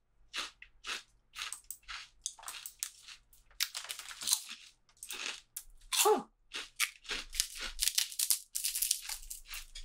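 Pork rinds being bitten and chewed close to the microphone: a run of irregular sharp crunches that comes thickest near the end. About six seconds in there is a brief hummed "mm" from a voice.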